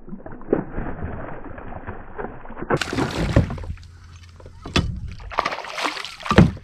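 Water splashing and sloshing beside a kayak as a hooked bass is fought to the boat, with a couple of sharp knocks in the second half.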